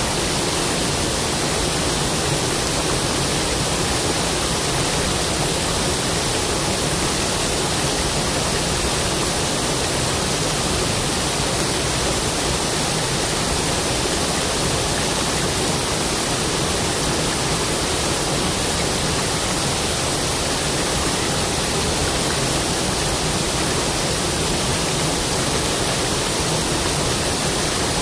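Waterfall: water falling and splashing in a steady, loud, even rush with no pauses or changes.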